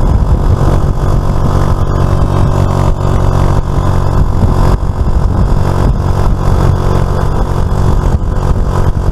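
Suzuki FL125 Address scooter's single-cylinder engine running steadily while riding at an even speed, with road and wind noise.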